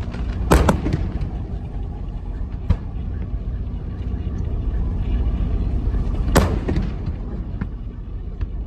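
Fireworks shells bursting: two loud booms about six seconds apart, with a smaller crack and a few faint pops between them, over a steady low rumble.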